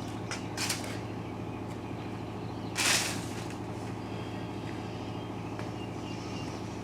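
Steady low machine hum in a workshop, with a few faint brief rustles early on and one louder short hissing scrape about three seconds in.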